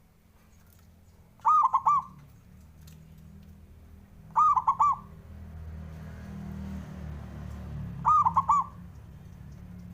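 Zebra dove (perkutut) calling: three short bouts of its quick, rolling coo, each a run of three or four notes about three seconds apart, over a low background rumble.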